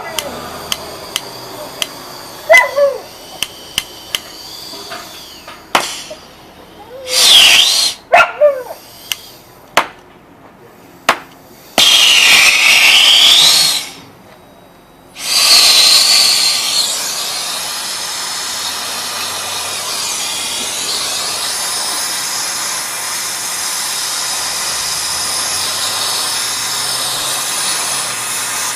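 Brazing torch being lit: a run of sharp clicks and short loud bursts of gas, then from about halfway a steady hiss of the torch flame burning while the compressor's copper lines are brazed.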